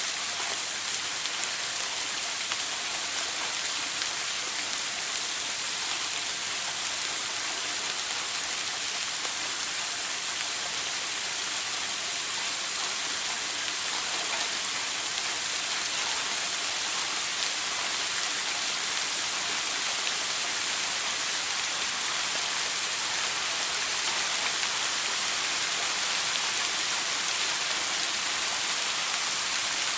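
Shower water spraying and splashing in a steady, even hiss.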